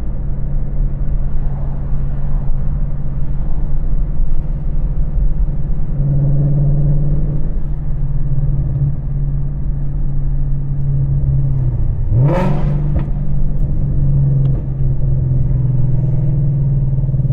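Ford Mustang GT's 5.0 V8 with long-tube headers and the exhaust in track mode, running at a steady engine speed while driving. About twelve seconds in, the engine note sweeps sharply up in a loud downshift rev-blip, then settles back to a steady drone.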